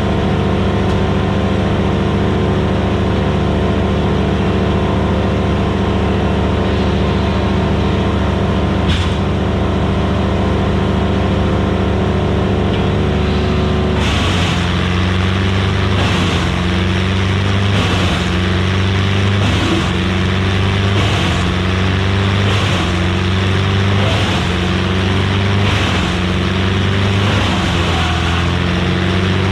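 Gas-engined Vermeer BC1000XL wood chipper running loud and steady. About halfway through, the engine pitch drops and begins rising and sagging in a regular cycle about every second and a half, as the engine takes load from wood going through the chipper.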